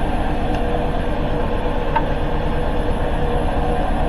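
Hoover H-Wash 300 Plus washing machine spinning: a steady rumble with a steady hum on top, and one faint tick about two seconds in.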